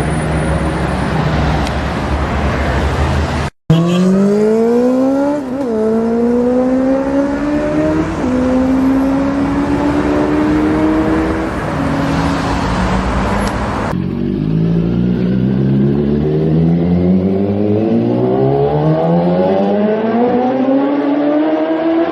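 Sportbike inline-four engines accelerating hard under wide-open throttle, in back-to-back clips that cut off abruptly: the engine pitch climbs, dips briefly at two upshifts, then rises again in a long pull.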